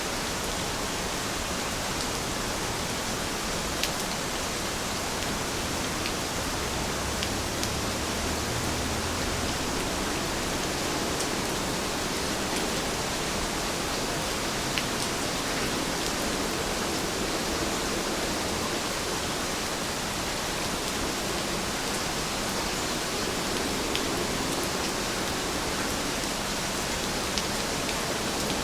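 Heavy rain falling steadily, an even dense hiss with scattered sharp drop ticks.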